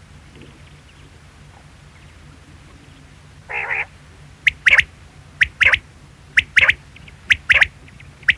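Quail calling: after a short raspy sound, sharp high call notes begin about halfway through and repeat roughly once a second, each a quick pair of notes, over a steady low hum.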